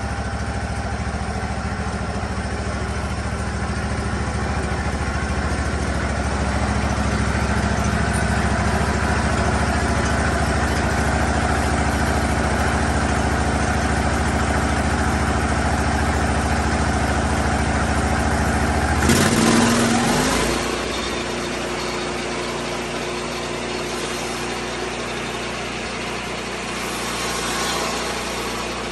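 Petrol engine of a Lucas Mill 10-30 swing-blade sawmill running steadily, then about two-thirds of the way through its note changes abruptly with a brief louder surge before settling into a lighter, steady running sound.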